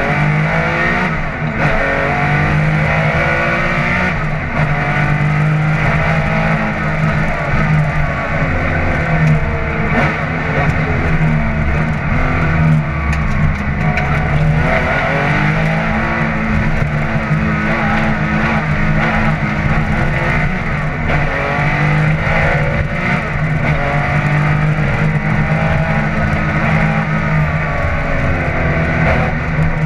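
Porsche 911 SC's air-cooled flat-six rally engine under hard driving, heard from inside the cabin. The engine note rises and falls again and again as the car accelerates and changes gear.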